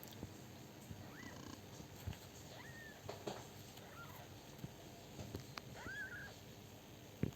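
Newborn kittens giving faint, high, short mews, about four of them, with a few soft knocks of movement, the loudest near the end.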